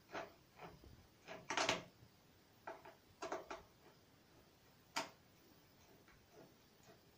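Irregular light clicks and knocks of a screwdriver and hinge hardware as cabinet doors are unscrewed and taken off.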